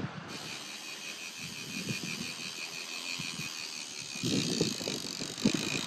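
Fishing reel's clicker ratcheting in a fast, even, high-pitched run as line pays out, starting about a third of a second in, over low wind and water rumble.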